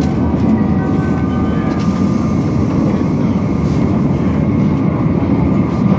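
200 series Shinkansen running at speed, heard inside the passenger cabin as a steady rushing rumble with faint steady high tones above it.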